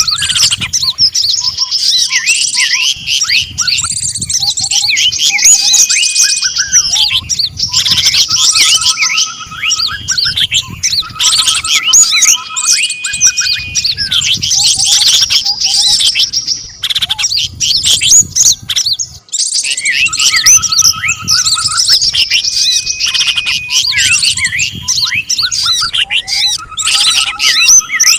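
A dense mix of small songbirds chirping, trilling and whistling over one another: a layered bird-lure call track of several species, with short level whistles among fast chattering notes.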